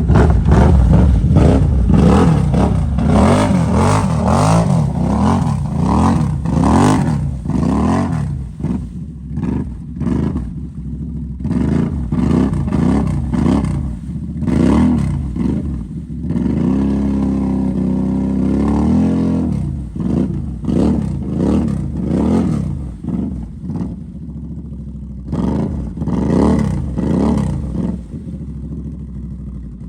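Off-road vehicle engine revved up and down again and again in quick throttle blips, a little more than once a second, with a longer steady hold about two-thirds of the way through before the blipping resumes.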